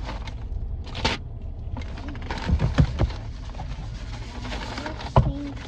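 Steady low rumble inside a car's cabin with the engine idling, broken by a few knocks and thumps, the sharpest about five seconds in.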